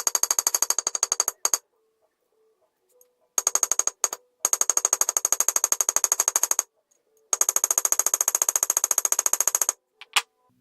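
Small hammer tapping a toy car's steel axle against a steel block to straighten it: quick ringing metal-on-metal taps, about ten a second, in runs of one to two seconds that stop and start again, with a last short tap near the end.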